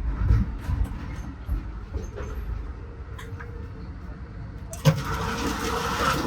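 Passenger train in motion: a low rumble with scattered rattling knocks. After a sharp knock near the end, it turns suddenly louder and hissier.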